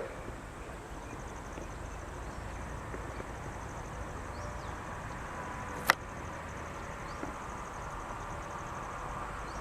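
Outdoor ambience: a steady low rumble with a faint, fast, high-pitched pulsing, and one sharp click about six seconds in.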